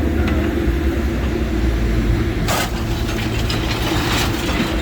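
A machine's engine running steadily while scrap metal clanks and rattles, with one sharp metallic clank about two and a half seconds in.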